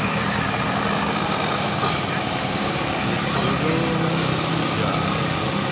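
Heavily loaded dump truck's diesel engine running steadily as it comes down a grade, with tyre and road noise.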